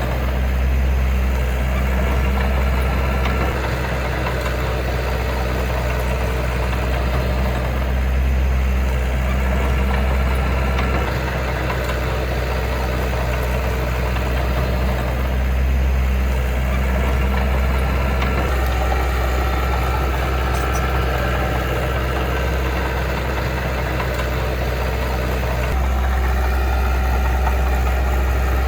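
Heavy diesel engine of earthmoving machinery running steadily with a deep hum, its level shifting slightly a few times.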